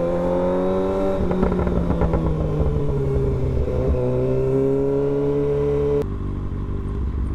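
Kawasaki ZX-6R inline-four engine running at a steady pitch while riding slowly in traffic, easing off briefly about a second in and again around four seconds in. The sound drops abruptly about six seconds in.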